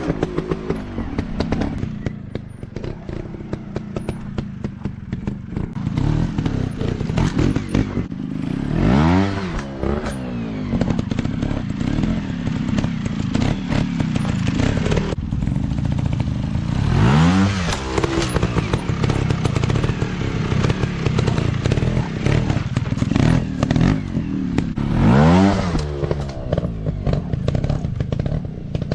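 Off-road dirt bike engine running, its pitch rising sharply under throttle and dropping back about every eight seconds, four times in all, with clattering and thuds in between.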